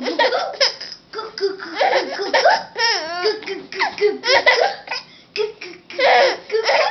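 Laughter in many short, high-pitched bursts.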